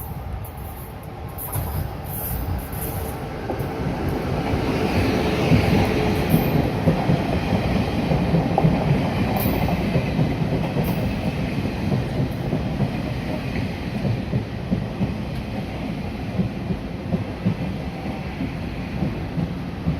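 Taiwan Railways Tze-Chiang express train pulling into a station: a low rumble builds over the first few seconds and then holds, with wheels clacking over rail joints and a faint wheel squeal a few seconds in.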